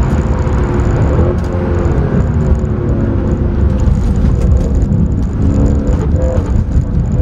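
Mercedes C63 AMG's 6.2-litre V8 engine heard from inside the cabin, its revs rising and falling, over a steady low rumble of road and tyre noise.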